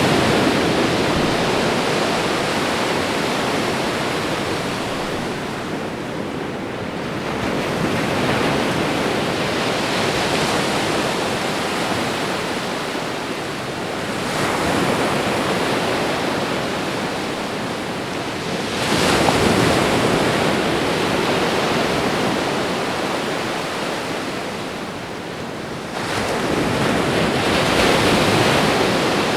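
Ocean waves breaking and washing onto a shore, a steady rush that swells with each incoming wave about every five to seven seconds, a sharper surge coming in about 19 seconds in and again near 26 seconds.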